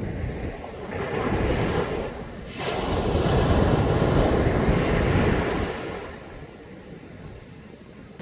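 Caribbean Sea waves washing onto a beach. A smaller surge comes about a second in, then a larger, louder one from about three to six seconds in, before the wash dies down.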